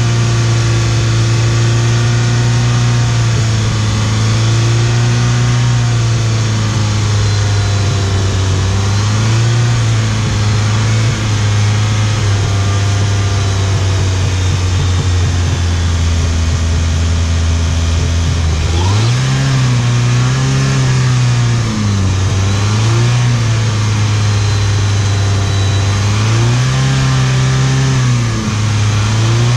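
Hyundai Sonata 2.0T turbocharged GDI four-cylinder engine running at a steady speed, then revving up and down a few times in the second half, while CRC GDI intake valve cleaner is sprayed into its air intake.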